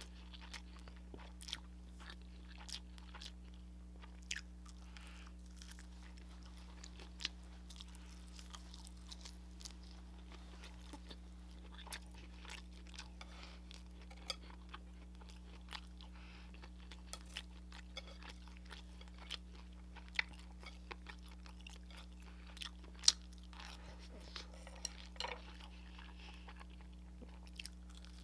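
Close-miked chewing with frequent sharp crunches and bites, from eating crispy fried soy-glazed chicken and spicy ramen noodles. The crunches come irregularly, one every second or so, over a steady low electrical hum.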